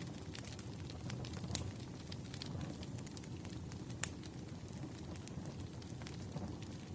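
Crackling campfire: a steady low rumble of burning wood with scattered sharp pops and crackles, one louder pop about four seconds in.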